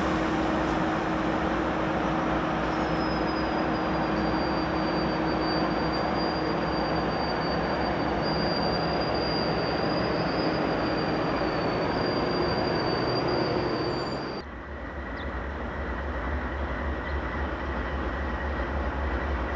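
Diesel locomotives rolling past with a steady rumble and a thin, high wheel squeal held from about three seconds in. About fourteen seconds in the sound changes abruptly to a deeper rumble with a faint steady whine.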